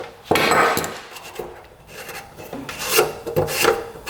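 Irregular scraping and rubbing of hand work on a small metal part, a motorcycle fuel petcock being opened up for cleaning; the loudest scrape comes about a third of a second in.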